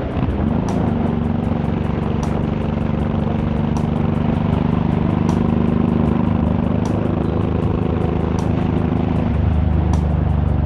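Honda VTX1800's big V-twin running under way with wind and road noise; the engine note dips and climbs back in the first second, as at a gear change, then holds steady and changes again about nine seconds in.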